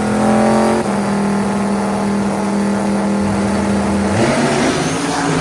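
Car engine pulling hard under acceleration, its pitch climbing slowly, with a sudden break about a second in and another shift in pitch around four seconds, as at gear changes.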